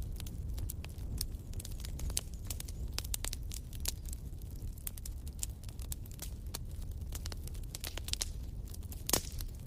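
Wood fire burning in a fireplace: a low steady rumble of flame with frequent irregular crackles and pops, one slightly louder pop about nine seconds in.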